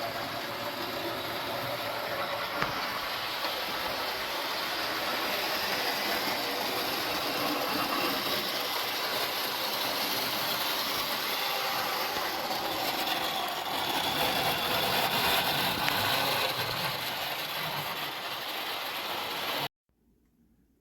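Steady mechanical running noise that cuts off abruptly about a second before the end.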